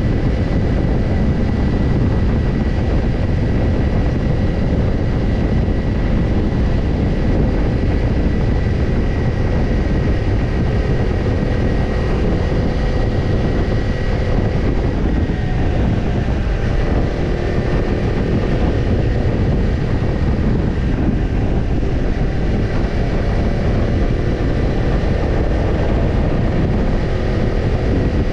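Kawasaki Ninja 250's parallel-twin engine running through a BEET NASSERT Evolution Type II titanium slip-on muffler, heard on the move at a fairly steady pace as a loud, even rumble.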